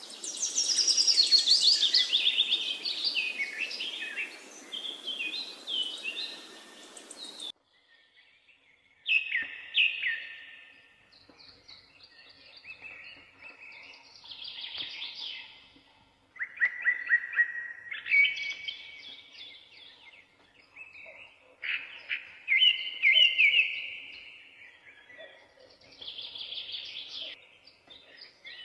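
Songbirds chirping and singing in short, rapid phrases of repeated notes, several times over. A steady hiss lies under the birds for the first several seconds and then cuts off abruptly, after which the song phrases come at intervals against a quiet background.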